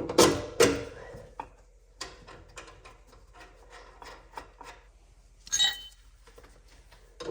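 Hand tools knocking and clicking against steel suspension parts, two loud knocks in the first second and scattered softer clicks after, with one ringing metal clink about five and a half seconds in.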